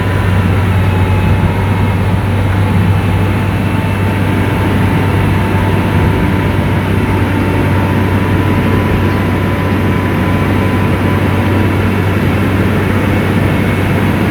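SDLG motor grader's diesel engine running steadily with a deep low hum and a thin, steady high whine over it.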